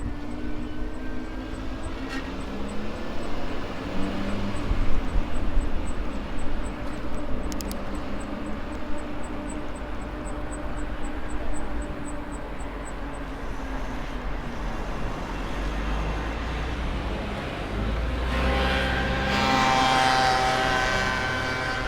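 Riding noise of a Maxtron Mule folding e-bike: wind rumble on the microphone and tyres rolling, with a low drone that rises and falls in pitch. A fast, regular faint ticking runs through the first half, and a louder humming with several pitches builds near the end.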